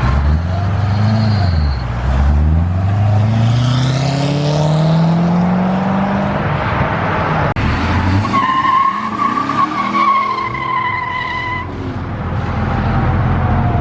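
A car accelerating hard away: the engine's pitch climbs, drops at a gear change about two seconds in, then climbs steadily again. From about eight seconds in, tires squeal with a high wavering tone for about three seconds.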